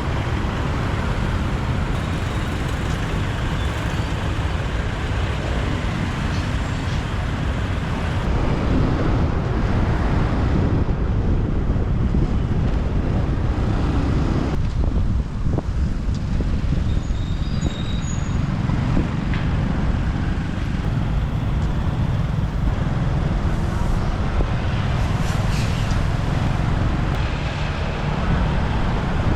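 Steady rumble of a motorbike riding through city traffic, with engine and road noise throughout.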